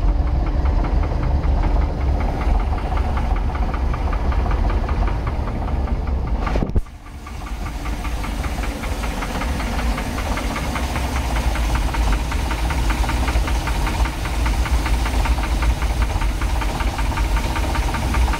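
454 big-block V8 marine engine running with a steady, rapid rhythmic knock, the fault the owner is recording. The sound drops away suddenly about seven seconds in and builds back up over a couple of seconds.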